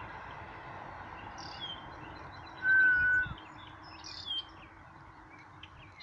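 Songbirds calling in the trees: a few short, high chirps, and about three seconds in a clear whistled note held for under a second, the loudest sound.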